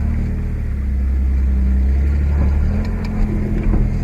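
Truck engine running steadily with a low hum; its note eases and shifts slightly about two and a half seconds in.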